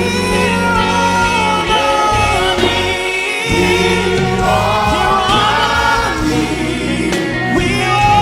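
Gospel worship music: several voices singing together over sustained low instrumental notes.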